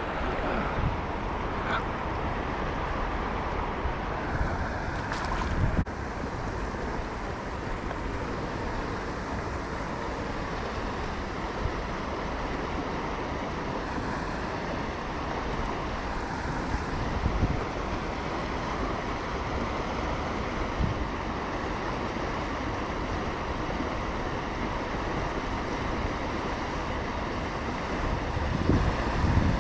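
Steady rush of a river's flowing water, with a few soft knocks here and there.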